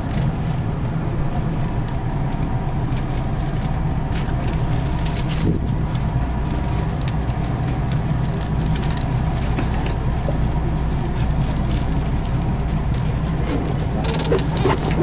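Steady low hum inside an electric train car, with scattered faint clicks and rustles and a brief hiss near the end.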